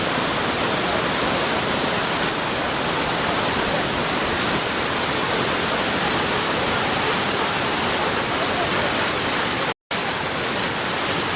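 Waterfall and river rapids rushing, a steady unbroken roar of falling water. It cuts out for an instant about ten seconds in.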